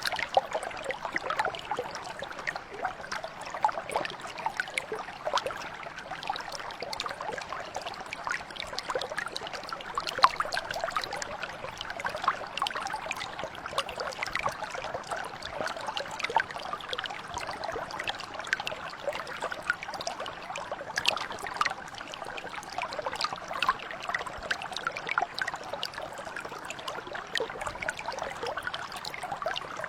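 Shallow mountain brook flowing steadily over stones, a continuous babble of many small splashes and trickles.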